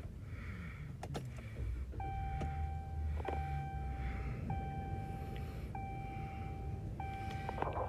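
A car's dashboard warning chime sounding a steady beep five times, about every second and a quarter, from about two seconds in, over a low rumble as the stalled engine is started again in the cold.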